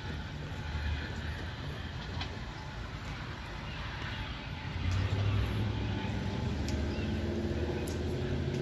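Metra diesel commuter train running past with a steady low rumble that grows louder about five seconds in.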